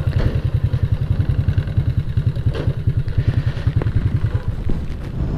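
Honda Supra underbone motorcycle's single-cylinder four-stroke engine running at low speed with a steady pulsing beat. The beat dies away about four and a half seconds in.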